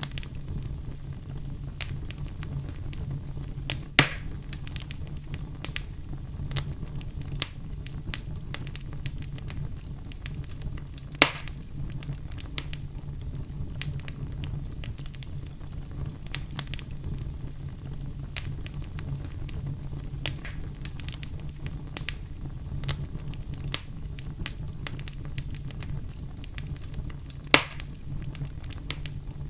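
Wood fire crackling in a fireplace: a steady low rumble of burning with constant small crackles and three louder pops, about 4, 11 and 27 seconds in.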